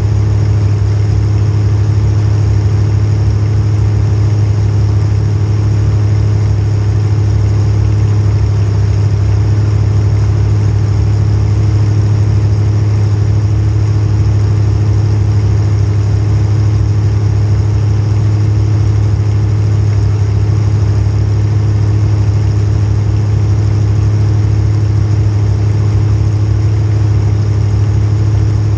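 Small-block Chevrolet V8 in a demolition derby car, running at a steady, unchanging speed.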